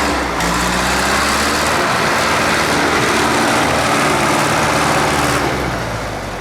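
Tractor engine running steadily, with a dense noisy hiss over it that eases about five seconds in.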